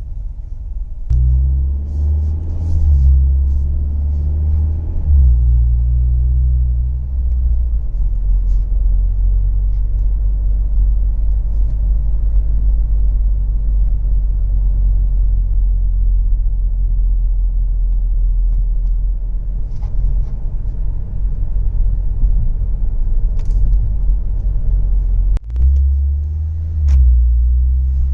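Cabin sound of a 2019 Mazda CX-5's four-cylinder engine through a Corksport intake and exhaust. A low exhaust note rises and steps in pitch as the car pulls away and shifts, then settles into a steady low rumble while cruising. A sudden break near the end is followed by another pull.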